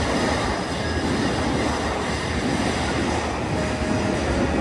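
Steady rumble and hum of electric commuter trains standing and running at a station platform, with a short thin whine near the end.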